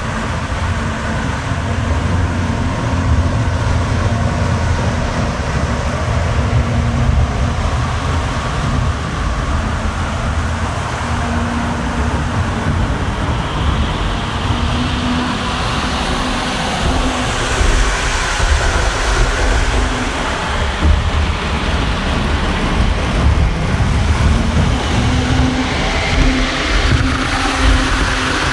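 Model train running on the layout's track: a steady low rumble of motor and wheels, with a faint hum that comes and goes and a rising hiss from about halfway through.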